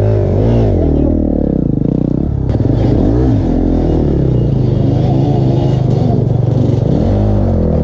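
Dirt bike engines revving hard, the pitch rising and falling again and again as the throttle is worked.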